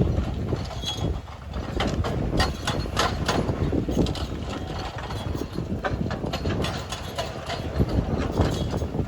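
Heavy machinery running with a steady low rumble and many irregular clanks and knocks.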